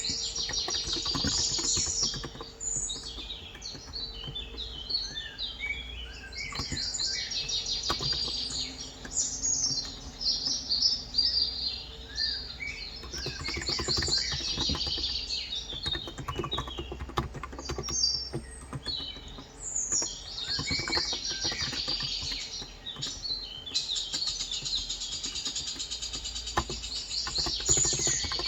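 Many birds chirping and trilling almost without a break, high-pitched and busy, mixed with scattered soft clicks of typing on a Cox Endeavor electrostatic-capacitive (35 g) keyboard.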